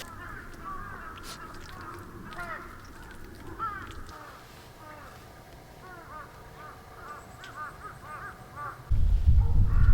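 Birds calling outdoors: many short rise-and-fall notes, several in quick succession near the end. About a second before the end, a sudden loud low rumble breaks in over them.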